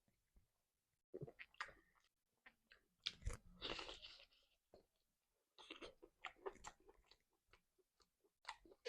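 Close-miked mouth sounds of someone eating: irregular crunching and chewing of food, with a few louder bites.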